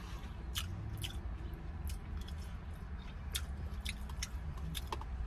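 A person chewing a mouthful of ramen noodles, with short wet mouth clicks several times a second over a low steady hum.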